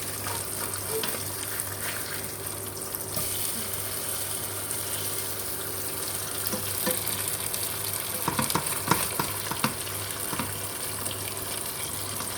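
Marinated milkfish frying in hot oil, a steady sizzle. A cluster of sharp clicks and knocks in the pan about eight to ten seconds in.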